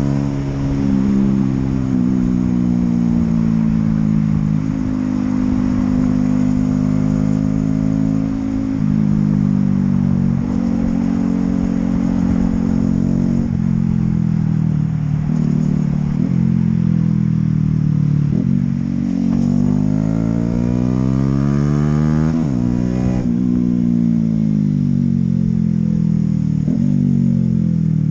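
Honda CB125R's single-cylinder engine running under way, holding steady revs with a few sudden drops in pitch in the first ten seconds. About twenty seconds in it revs up and down several times in quick swells, and the revs fall away at the end.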